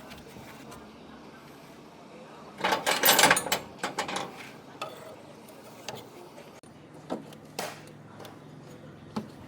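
Metal tools and parts clattering and knocking during tractor clutch repair work, with one loud rapid run of knocks about three seconds in and scattered clicks after it. A faint low steady hum comes in near the end.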